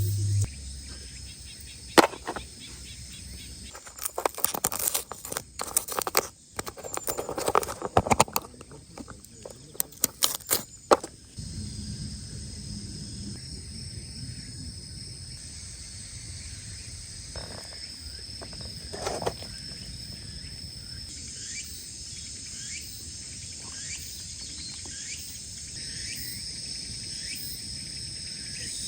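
Insects, crickets among them, trilling steadily in the background. Between about two and eleven seconds in there is a run of sharp clicks, clatters and rustling, as of things being handled close by.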